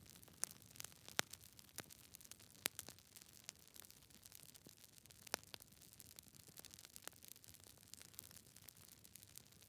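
Wood fire in a fireplace crackling: irregular sharp pops and snaps from the burning logs over a faint steady hiss, a few pops standing out louder than the rest.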